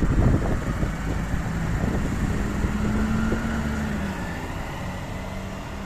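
A motor vehicle's engine running close by with a low rumble; its note rises slightly and then fades after about four seconds.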